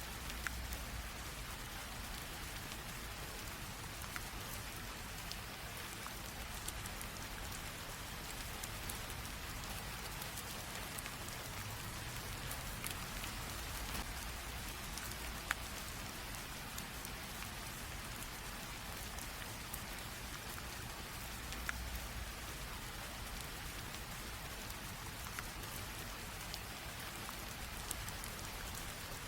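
Light rain drizzle, a steady soft hiss with scattered individual drops ticking on a surface.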